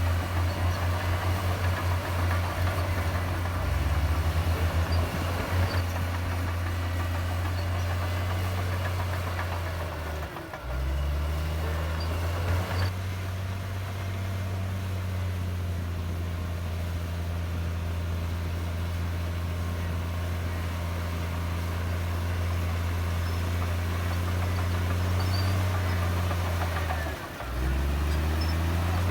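Heavy diesel engine of earthmoving machinery running steadily. Its note drops briefly about ten seconds in and again near the end, each time climbing back up as the engine is throttled up again.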